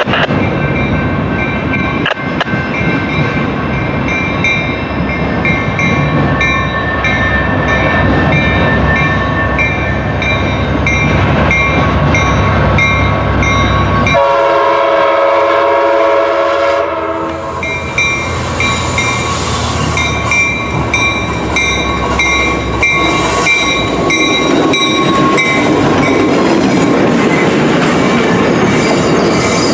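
Passenger train rolling through with a steady low rumble and a thin high squeal over it; about halfway through the train's horn sounds one blast of about three seconds.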